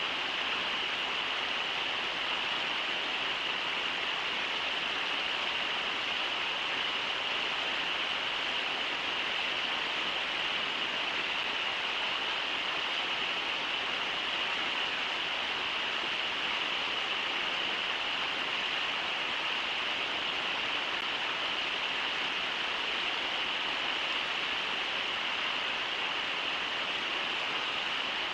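Steady rush of the Brooks River's water running over its shallow rapids, an even hiss, brightest in the upper range, that neither rises nor falls.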